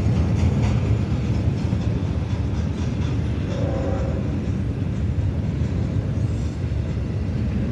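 Double-stack intermodal container cars of a freight train rolling past, a steady low rumble of wheels on rail.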